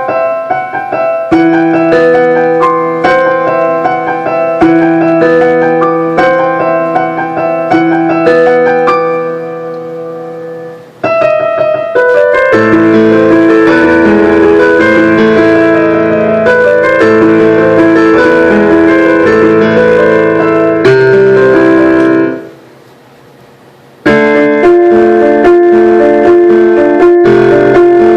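A keyboard playing a medley of song snippets. The first piece fades out about eleven seconds in, a louder, fuller one follows and stops abruptly about twenty-two seconds in, and after a brief silence another begins.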